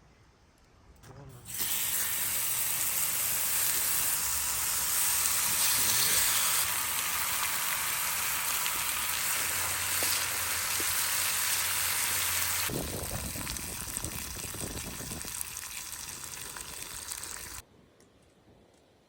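Food sizzling and frying in a pan: a dense steady hiss that starts abruptly about a second and a half in, eases a little past the middle and cuts off suddenly near the end.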